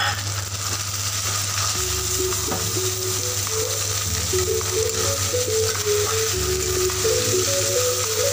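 Moong dal frying in oil in a metal kadhai, sizzling steadily as a spatula stirs it. About two seconds in, a background melody of held, stepping notes joins.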